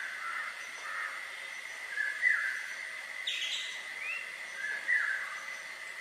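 A bird repeating a short call, a brief note followed by a falling slur, three times about two and a half seconds apart, over a steady thin high tone. There is a brief hissing burst about halfway through.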